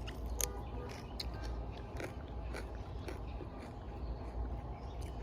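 A person biting into and chewing a raw Little Marvel pea pod, a series of crisp crunches at irregular intervals; the pod is a little fibrous.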